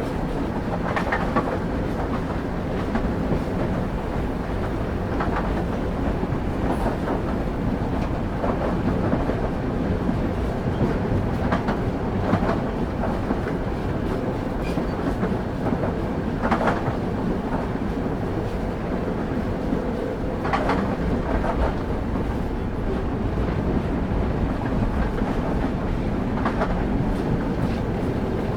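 Railway wheels on the track of a moving train: a steady, dense low rumble with sharp clacks at uneven intervals, about ten in all, as the wheels pass over rail joints.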